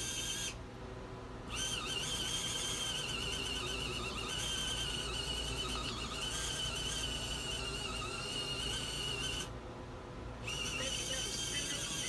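Small portable folding washing machine running, its motor giving a steady high whine over a low hum, cutting out for about a second twice. Its agitator is turning only weakly, with little real spin.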